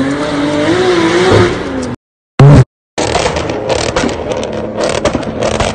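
Car engine revving, its note climbing for about a second and a half, before the audio cuts out for about a second with one short loud blip. After that, a Ford Mustang close by runs with a rough, loud rumble and scattered crackles.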